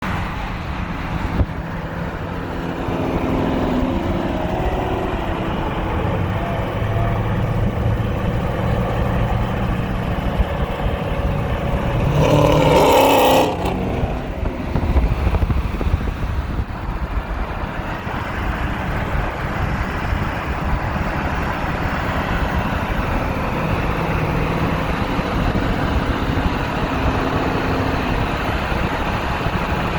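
Exhaust of a cammed Chrysler 300 SRT V8 at highway cruise: a steady drone that shifts slowly in pitch, with a louder, brighter surge about twelve seconds in.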